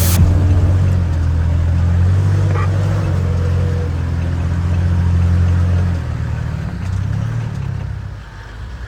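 Off-road 4x4 engine running with a steady low drone, dropping off and quieter in the last few seconds.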